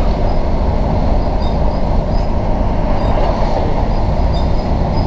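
Steady rumble of a diesel passenger train running along the track, heard from inside the carriage.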